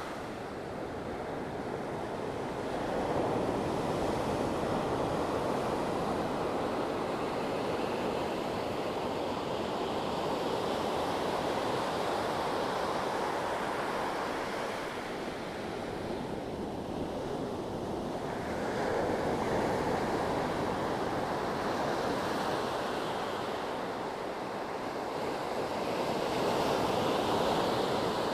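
Sea waves breaking and washing on the shore in a continuous rush that swells and eases every several seconds.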